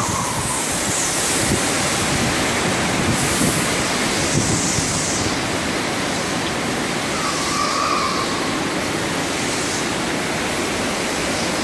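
Hurricane-force wind howling and wailing in gusts, with torrential rain, a steady unbroken noise with brief higher whistling tones.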